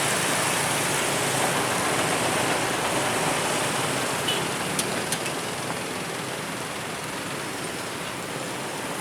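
Road traffic noise: a steady rush of vehicles that slowly fades, with a few sharp clicks near the middle.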